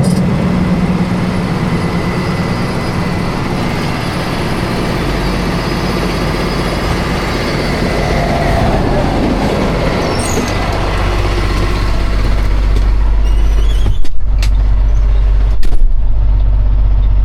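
Highway traffic rushing past, with heavy vehicles going by and a low, steady engine hum that grows louder in the second half. Two short knocks come near the end.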